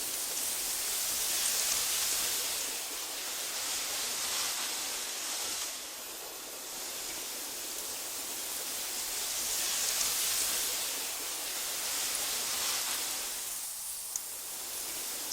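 Wind blowing through tall meadow grass: a steady hiss that swells and eases in slow gusts every few seconds, with a small click near the end.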